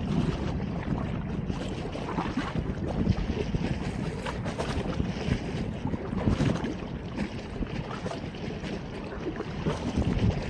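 Wind blowing across a phone's microphone: a steady rushing rumble that swells and dips in gusts.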